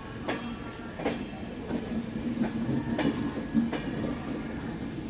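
Passenger coaches of the Pooja Express rolling past at low speed, with a steady rumble of wheels on rail. The wheels clack over rail joints about every three-quarters of a second.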